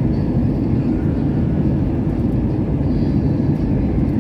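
Steady low rumble of an airliner heard from inside the passenger cabin: engine and airflow noise with no sudden events.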